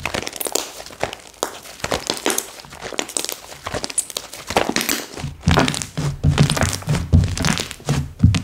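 Hands squishing and folding slime, with quick irregular crackling clicks. From about five seconds in, deeper thuds come as the slime is pressed down.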